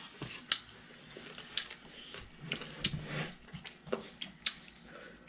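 Eating sounds from a hand-eaten meal: faint wet mouth clicks and lip smacks of chewing, scattered about once a second.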